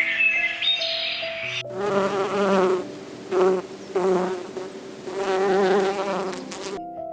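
A flying insect buzzing in several wavering swells over background music, starting a little under two seconds in and stopping shortly before the end.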